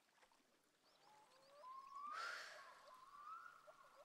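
Faint birdsong on calm water, with a few short repeated chirps and longer gliding whistled notes, and a brief soft rush of noise about two seconds in.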